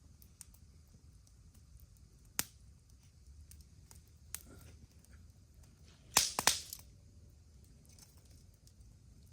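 Campfire crackling: scattered small ticks, a sharp pop about two and a half seconds in, and a louder burst of cracking a little after six seconds.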